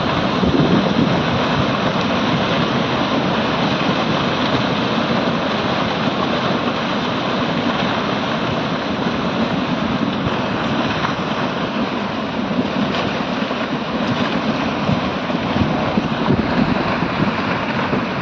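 A mountain stream in flood, carrying mud, debris and stones: a steady, loud rush of churning water.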